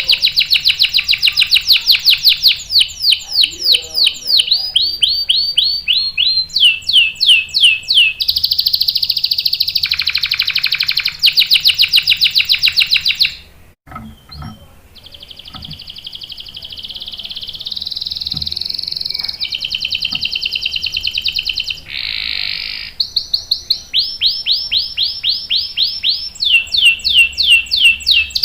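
Domestic canary singing long rolls: fast trills and strings of rapidly repeated high notes, some falling in pitch. There is a short break about 14 s in, and then the rolling song goes on.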